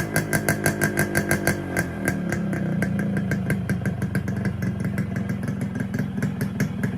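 Yamaha RX100's two-stroke single-cylinder engine idling through a stock muffler modified with a steel tube welded inside, which gives it a 'blasting' exhaust note. After a rev dies away, the exhaust pops about four times a second, then settles after about two seconds into a faster, even idle.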